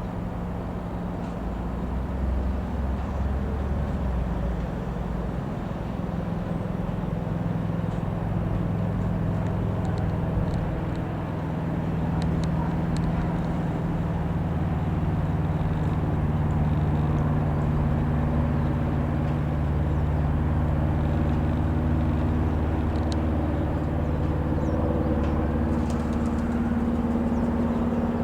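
Single four-cylinder piston engine of a Robin HR.200-160 light aeroplane droning steadily as it flies over, a low drone whose pitch drifts slightly, getting a little louder after the first couple of seconds.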